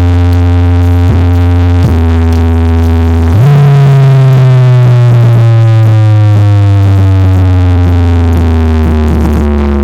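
Huge East Javanese 'sound horeg' carnival sound system playing a very loud, deep synthesizer bass tone. About three and a half seconds in, the tone jumps up in pitch, then glides slowly down.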